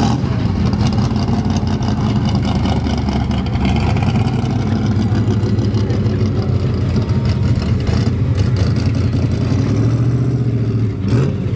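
Classic muscle cars' engines running at low speed as the cars drive slowly past one after another, a steady low exhaust note with a slight rise near the end.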